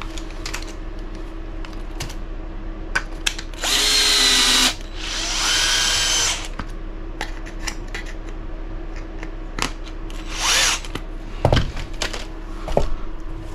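Small cordless power driver running in three short bursts: two of about a second each a few seconds in, and a shorter one near the end. Small parts click and tap between the bursts.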